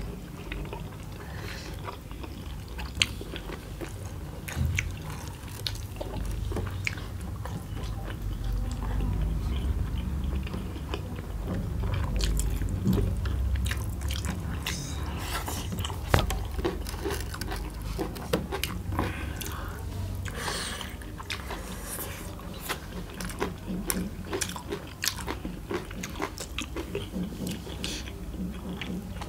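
Two people biting into and chewing large steamed chicken taipo momos, with many short wet mouth clicks and smacks scattered throughout.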